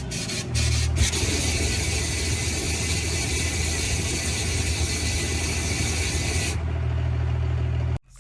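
Diesel truck engine running hard under a loud, steady hiss that sets in about a second in, typical of tyres spinning in a burnout. It cuts off abruptly near the end.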